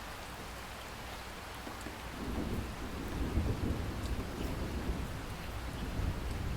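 Steady rain falling, with a low roll of thunder that builds about two seconds in and keeps rumbling on.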